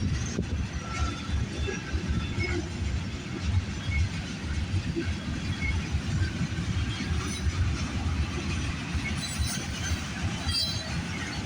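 Freight cars of a CN freight train rolling past on the rails, a steady low rumble with a few faint short squeaks from the wheels.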